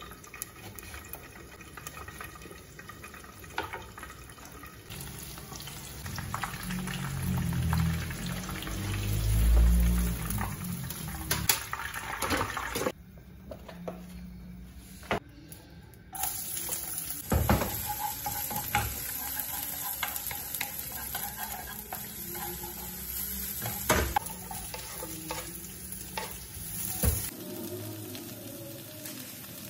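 Knife clicking through red chillies on a wooden cutting board, then, about halfway through, a steady sizzle of hot oil in a nonstick wok as sliced shallots, chilli and green onion are stir-fried.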